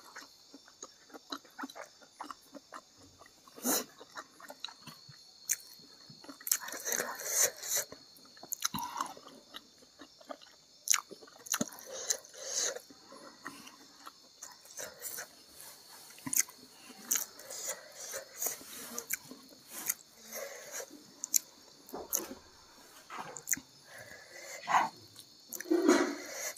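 A person chewing and smacking a mouthful of rice and vegetables close to the microphone, in quick irregular wet clicks and smacks, with louder bursts of chewing a few times.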